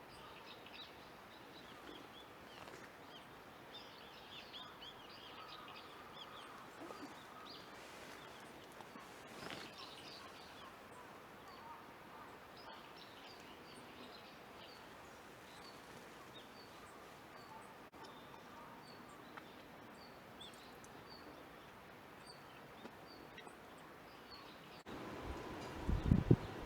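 Small wild birds calling with short, thin, high chirps repeated over faint outdoor ambience. Near the end the background gets louder and a short, louder, low hooting sound comes in.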